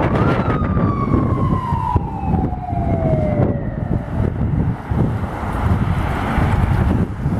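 Fire truck siren: one tone that jumps up shortly after the start, then slides slowly down over about four seconds, over a steady low rumble of wind and traffic.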